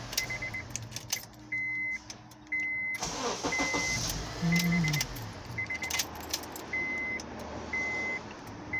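A car's electronic beeps repeating at one high pitch, some in quick groups of three and some held longer, with scattered clicks and key jingling and a brief burst of noise about three seconds in.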